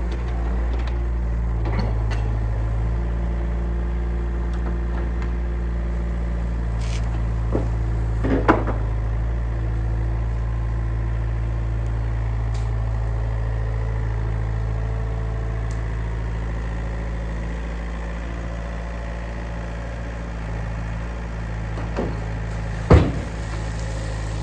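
Yanmar VIO50 mini excavator's diesel engine running steadily, with two sharp metallic knocks, the louder one near the end, as the machine works.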